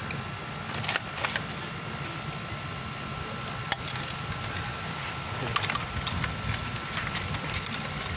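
Scattered light clicks and knocks of parts and tools being handled during a fuel filter change, over a steady low hum.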